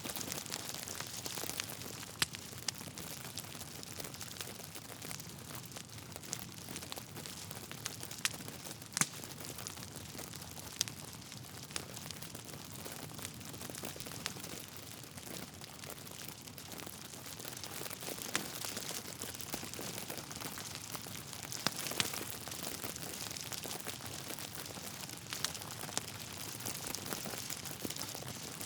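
Wood logs burning in a fireplace: a steady hiss with scattered sharp crackles and pops, a few of them louder than the rest.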